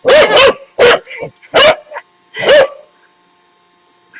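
A puppy barking loudly, about five barks in quick succession over the first three seconds, then falling quiet.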